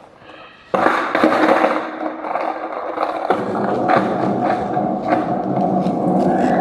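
Skateboard wheels rolling over pavement. The rolling noise starts suddenly about a second in and keeps going, with a few knocks from the board along the way.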